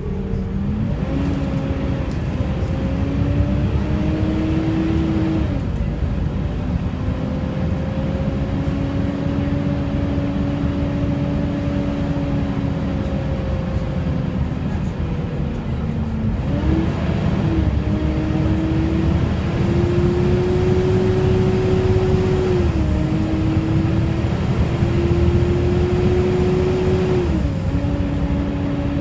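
Volvo B7TL double-decker bus with its D7 six-cylinder diesel under way, a pitched engine and drivetrain whine over steady road rumble. The whine climbs slowly and drops sharply four times, as at the automatic gearbox's upshifts, alongside the loud cooling-fan 'hoover' noise these buses are known for.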